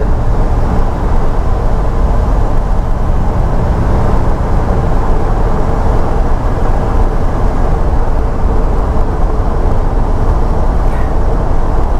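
Truck engine and road noise heard from inside the cab, steady, as the truck climbs a mountain grade under load at high elevation.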